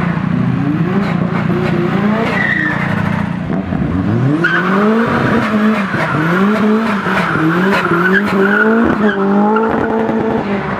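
Classic Ford's engine doing a burnout. It runs hard for a few seconds, then revs up and down about once a second while the tyres squeal steadily from about four seconds in.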